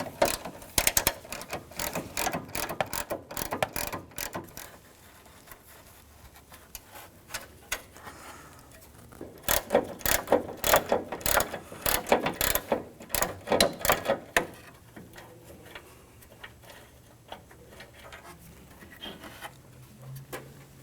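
Socket ratchet with an 8mm socket clicking as the hood latch's two 8mm bolts are unscrewed. There are two runs of rapid clicking, one at the start and one from about ten to fourteen seconds in, with quieter handling between and after.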